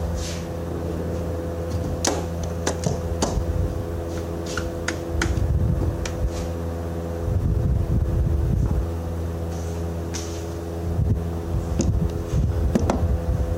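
A machine running with a steady hum, with scattered sharp clicks and knocks of tools on metal, several in quick succession a few seconds in and again near the end.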